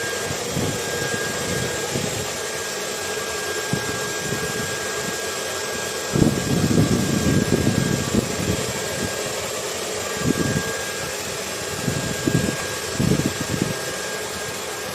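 Hair dryer running steadily: an even whooshing hiss with a thin high whine, mixed with wind that comes in low gusting rushes, strongest about six seconds in.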